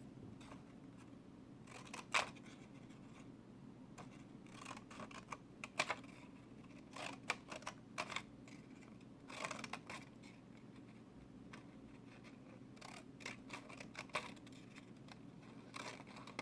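Scissors snipping through craft paper in irregular short cuts, some in quick clusters, cutting out a paper bird's wing.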